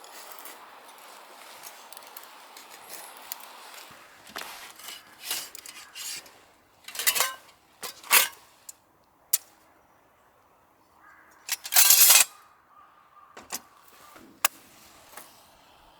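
A series of separate metallic clinks and knocks, about one a second, from camp cookware or utensils being handled, the loudest about three quarters of the way through; before them only a faint steady hiss.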